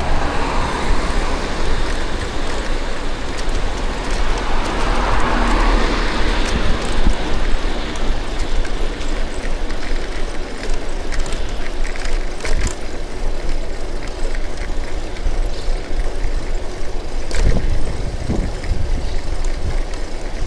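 City street traffic heard from a bicycle: steady road noise and low rumble, with a motor vehicle passing about five seconds in and a few short knocks later on.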